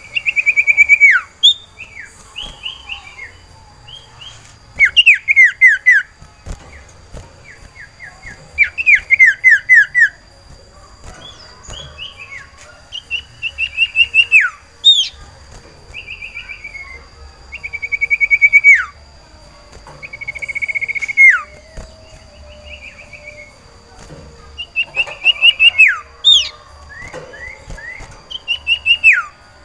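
Sirtu iora (cipoh) singing: phrases of rapid, downward-sweeping whistled notes, repeated every few seconds. The uploader takes the bird to be in breeding condition, calling for a female.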